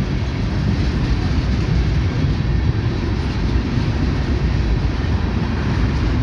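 Kansas City Southern freight train rolling by, a steady heavy rumble.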